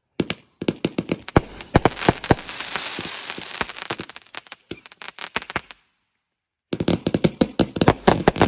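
Fireworks going off: a fast, dense run of sharp bangs and crackles with a couple of faint falling whistles in it. It breaks off just before 6 seconds, then a second rapid string of bangs starts near the end.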